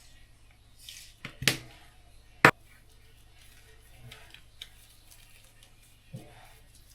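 A few sharp clicks and knocks of small hard objects being handled and set down, the loudest a single sharp click about two and a half seconds in.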